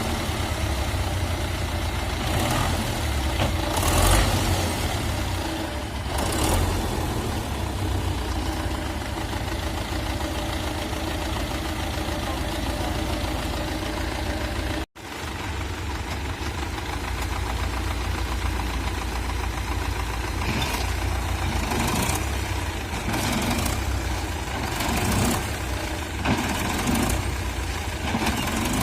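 Tractor engine running steadily, with a brief break about halfway through.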